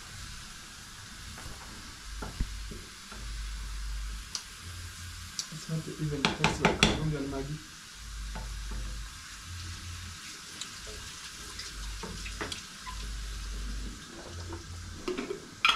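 Onions frying with a steady sizzle on a gas stove while a spoon stirs and clicks against a metal pot. About six seconds in there is a short spell of louder clattering and scraping.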